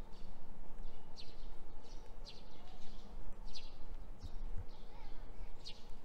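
A bird calling repeatedly, a short chirp sweeping down in pitch about once a second, over a steady low hum of street ambience.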